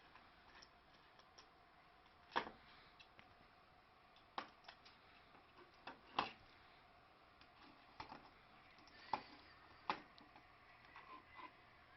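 Scattered light knocks and clicks over faint background noise, about half a dozen at irregular intervals, the sharpest about two and a half seconds in and again about six seconds in.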